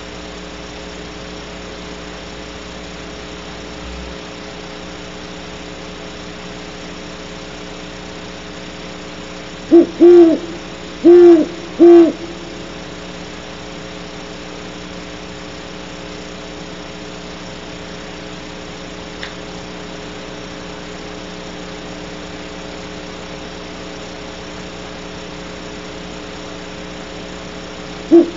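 Great horned owl hooting close by: one loud series of about four deep hoots in a stuttering rhythm about a third of the way in, and another series beginning at the very end, over a steady electrical hum.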